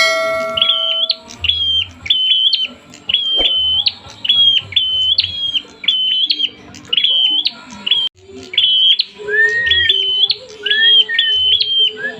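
Prinia (prenjak) calling in agitation: a fast, steady series of short, high chirps, about two a second. Lower gliding calls join in during the second half.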